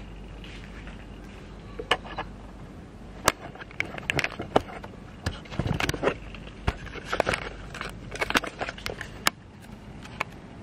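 Irregular sharp clicks and crackles, densest in the middle and stopping near the end, over a steady low hum.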